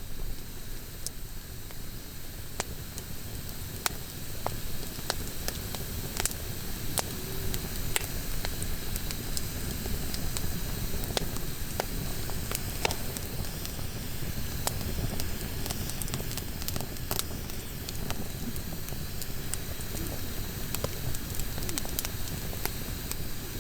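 Wood campfire burning, with scattered sharp pops and crackles over a low, steady rumbling noise.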